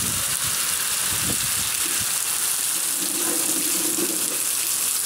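Heavy rain falling, a dense, even hiss at a steady level.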